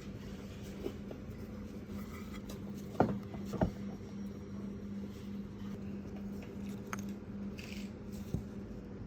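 Steady low hum with light handling noises and two sharp knocks about three seconds in, half a second apart, as cylinder-head parts are handled on a workbench.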